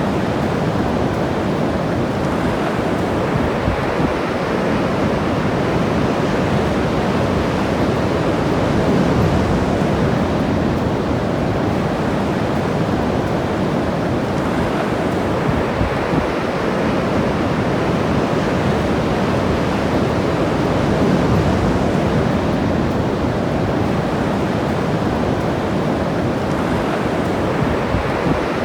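Ocean waves breaking on the shore in a steady wash of surf, swelling gently a couple of times, with some wind on the microphone.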